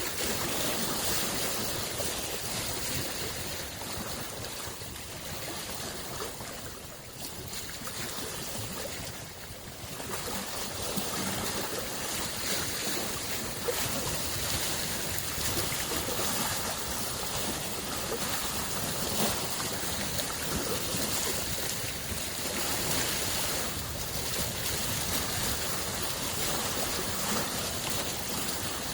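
Small lake waves washing against the shore in a steady rushing wash, easing off briefly about seven to ten seconds in.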